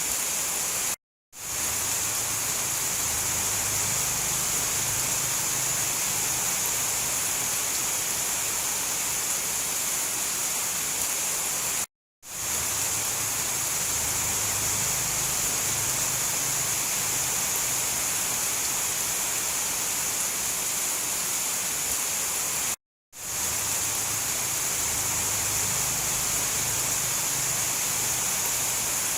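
Steady heavy rain, a dense even hiss with a faint low rumble beneath it. It cuts out to silence for a moment three times, about every eleven seconds, where the looped recording restarts.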